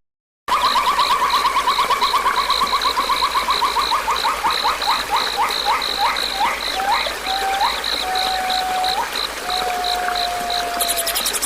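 Nature-sound recording of animal calls. A high chirp pulses a few times a second throughout, and a lower call starts as a fast trill, then slows into separate long drawn notes. A shrill insect-like buzzing begins near the end.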